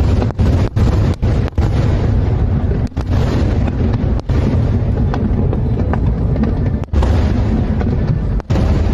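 Aerial fireworks bursting in a dense, continuous barrage of deep booms, with the sound briefly dropping out several times.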